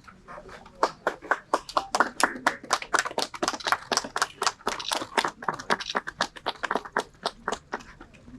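A small crowd clapping hands, many sharp claps a second, starting about a second in and tailing off near the end.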